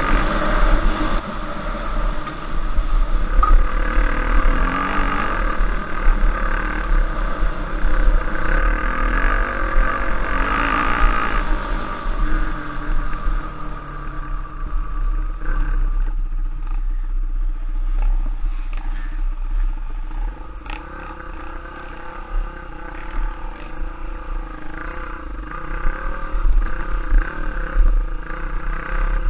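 Trail bike engine running under changing throttle, pulling hard for the first dozen seconds and then easing off. Short knocks and clatter sound through the later part.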